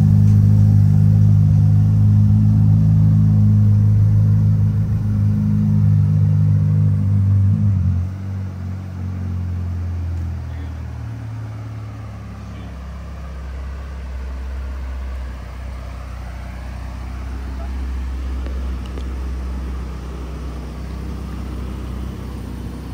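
Ferrari F8 Spider's twin-turbo V8 idling, stationary, at a raised idle. About eight seconds in the idle steps down and the engine settles into a lower, quieter idle.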